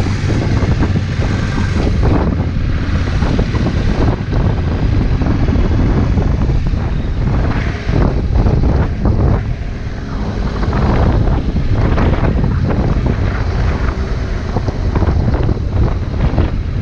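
Motorcycle engine running under way, with heavy wind buffeting on the microphone.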